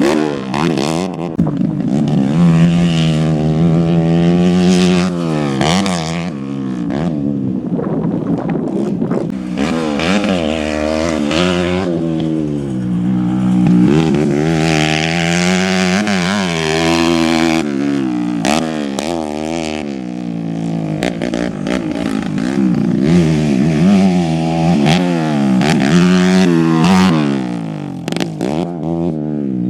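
Motorcycle engines on a grasstrack revving up and falling back again and again as the riders accelerate and shift, with more than one bike heard at once.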